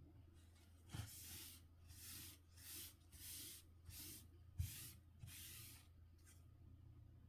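Faint rubbing strokes on a Nokia C5-00 phone being cleaned, about seven in a row, each about half a second long and a little over half a second apart. A light knock comes about two thirds of the way through.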